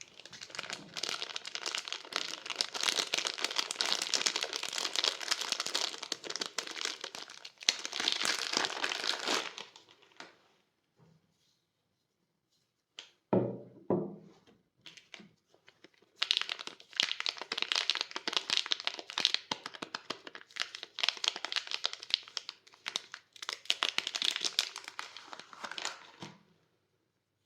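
Soap packaging crinkling and tearing as bars of soap are unwrapped by hand, in two long stretches. Between them comes a short pause with a single soft knock.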